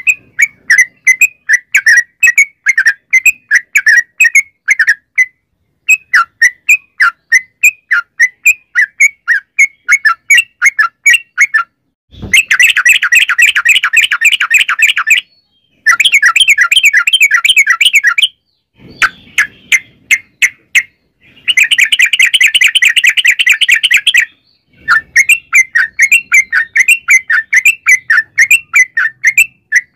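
Yellow-vented bulbul (trucukan) singing continuously in a loud run of short, bubbly chirping notes, a few a second. About twelve seconds in, it breaks into fast, rattling 'ropel' phrases three times.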